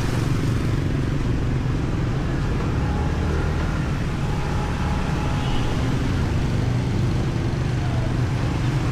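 Riding a motorbike through city traffic: a steady low rumble of the engine and road noise.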